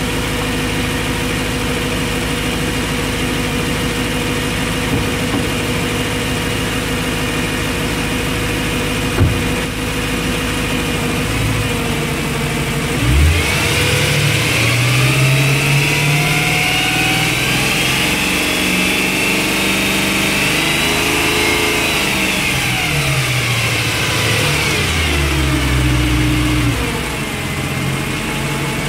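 Stock 2009 BMW E90 M3's S65 4.0-litre V8 idling steadily, then revved up slowly about halfway through, held high for a moment, and let fall back to idle near the end. It is run up so that it can be judged by ear for signs of rod bearing wear.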